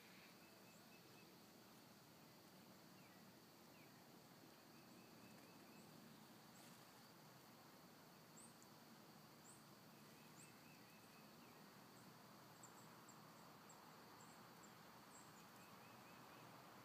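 Near silence outdoors, with faint distant bird calls: short, soft trills now and then, and a string of brief, high chirps in the second half.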